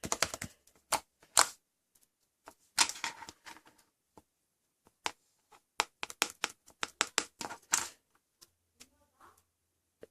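A run of sharp, irregular clicks and taps in a small room. There is a short scratchy rustle about three seconds in and a quicker flurry of clicks near the middle.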